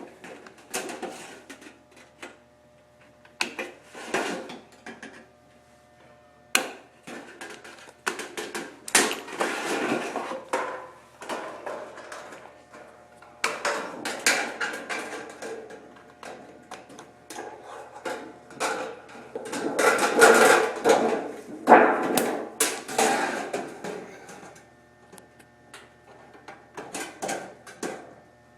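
Sheet-metal duct being cut and handled by hand: irregular bursts of metallic cutting and clattering, with sharp clicks and short pauses between them.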